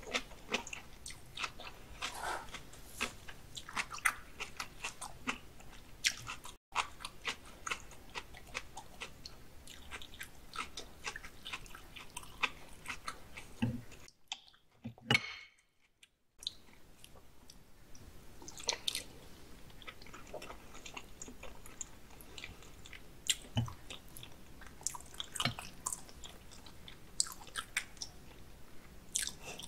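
Close-up wet chewing of raw salmon sashimi, a fast run of small smacking mouth clicks. There is a short break of about two seconds near the middle.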